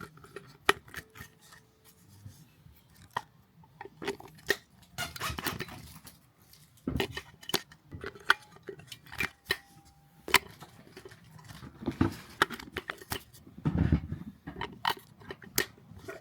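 Scattered clicks, taps and short rustles of small objects and packaging being handled, with a few louder knocks.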